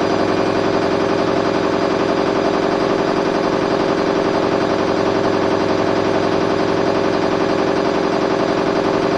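Candy front-loading washing machine on its spin cycle, the drum spinning at high speed (set to 800 rpm): a loud, steady whir with a fast, even pulsing rattle.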